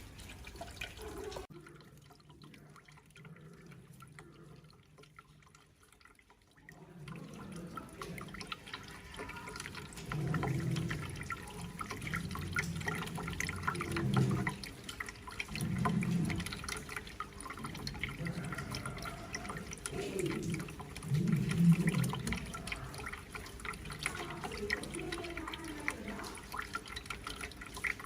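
Water pouring and splashing down a cement aquarium waterfall, quiet for the first few seconds, then louder and uneven with irregular surges from about seven seconds in.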